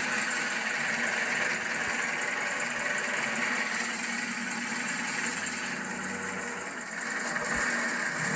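The 1984 Alfa Romeo Spider Veloce's 2-litre twin-cam inline four-cylinder engine idling steadily.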